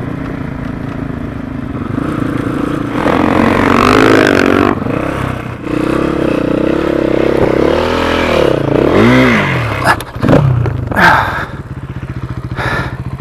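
Dirt bike engine revving up and down as the throttle is worked over rough ground, its pitch rising and falling several times, with a few sharp knocks and clatters about ten seconds in.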